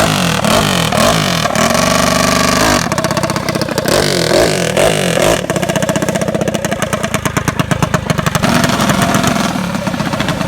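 Two hopped-up mini bike engines, built with a small big-bore cylinder and a stroker crank, revving against each other, their pitches rising and falling. About two seconds in one is held at a steady high rev for a moment, then drops. Later there are several seconds of fast, even engine pulses.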